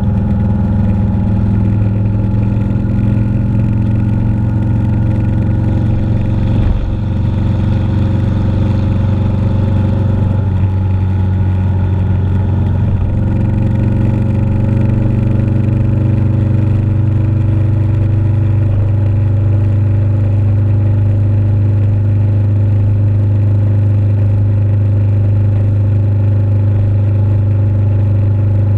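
Motorcycle engine running steadily at cruising speed. Its note shifts briefly about seven seconds in and settles again a few seconds later.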